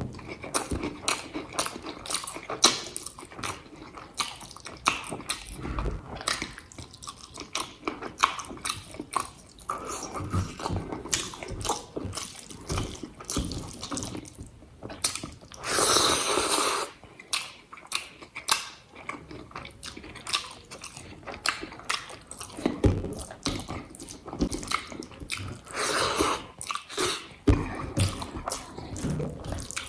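Close-miked eating: wet chewing and lip smacking, a quick run of small moist clicks. It rises to louder, longer noisy stretches about halfway through and again near the end.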